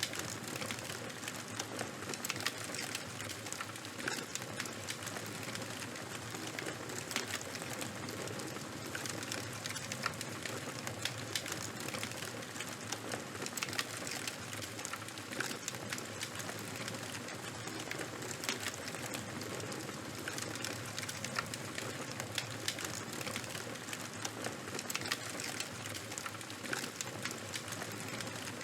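Charcoal and wood fire burning: a steady hiss with many small crackles and pops at irregular intervals.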